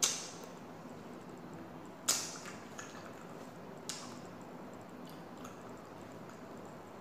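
Eating noises close to the microphone: three sharp, crisp sounds, about two seconds apart and fading quickly, over a steady low hiss.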